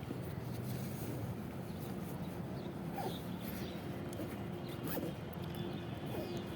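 Zipper of a backpack being worked, with scattered short rasps and ticks over a steady low background hum.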